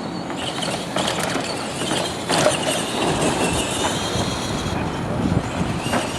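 Radio-controlled monster trucks running: electric motors and gearing whining over a steady noise, with a thin whine near the middle and a few sharp knocks.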